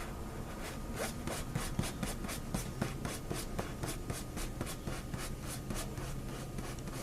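Rhythmic rubbing or scraping strokes, about three to four a second, starting about a second in, over a faint steady low hum.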